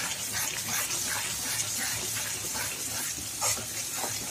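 Ground masala paste sizzling in hot mustard oil in an iron kadai, with a metal spatula scraping and stirring through it at about two or three strokes a second.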